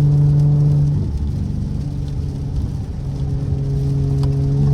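Straight-piped V6 car exhaust droning steadily under way; about a second in the drone drops off into an uneven, quieter rumble as the throttle comes off, and near the end the steady drone returns.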